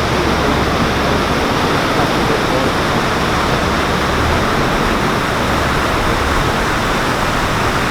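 Steady loud rush of water pouring through the paddles of a canal lock, with a low rumble underneath.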